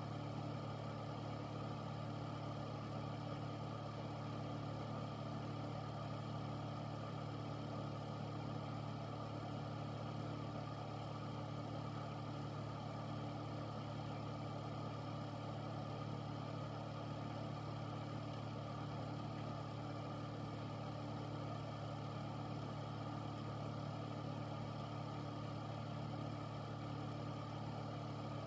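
Air filter fan running steadily: a constant low hum under an even rush of air, with no change in speed.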